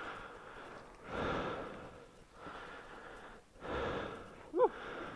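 A person breathing hard, about four deep breaths a second or so apart, winded from pushing a stalled motorcycle through a river; a short voiced grunt near the end.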